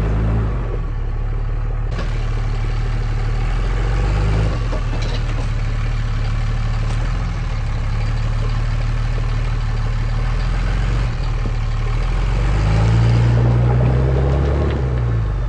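Truck engine running at low speed off road. Its pitch drops just after the start, climbs as it revs up about three-quarters of the way through, then falls back near the end. A few light knocks sound over it.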